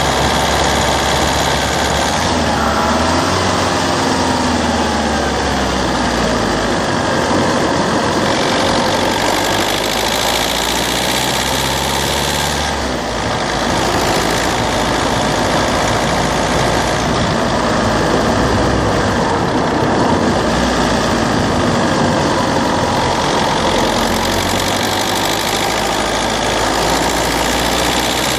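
Citroën C3's 1.4 HDi DV4TD four-cylinder turbodiesel engine running continuously, heard up close at the engine, its pitch rising and falling slowly as engine speed changes.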